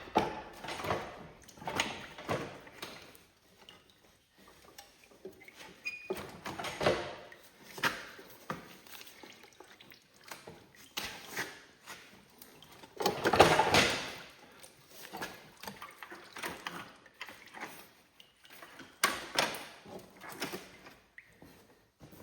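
Irregular metal knocks, clunks and scrapes from the Cub Cadet 1782's engine being worked loose and shifted out of its chassis, with a louder scraping rumble lasting about a second and a half a little past the middle.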